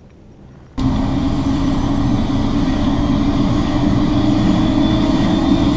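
Tour helicopter's turbine engine and rotor running loudly during start-up, with a high whine that rises slowly as the rotors come up to speed. The sound begins abruptly about a second in.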